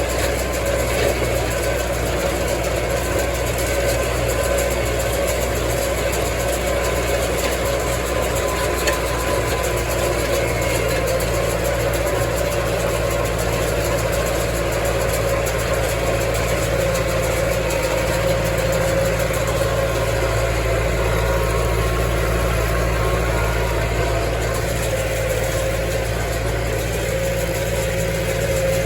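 Massey Ferguson tractor engine running steadily while pulling a square baler in the hay field.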